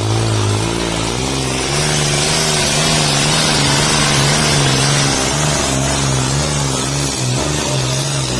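Tractor's diesel engine running hard under heavy load while pulling a disc harrow, its note wavering up and down.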